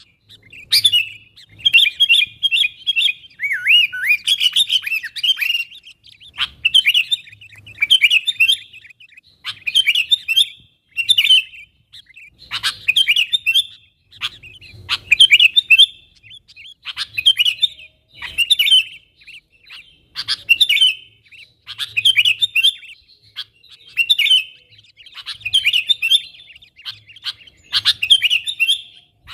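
Sooty-headed bulbul calling in lively, short chattering phrases, one after another about every second with brief pauses between them.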